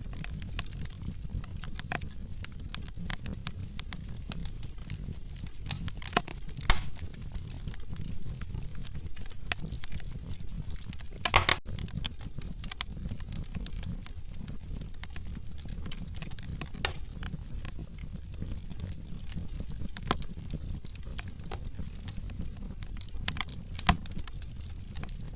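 Wood fire burning in a fireplace: a steady low rumble of flames with irregular crackles and sharp pops from the burning logs, the loudest pops about a third of the way in, near the middle and near the end.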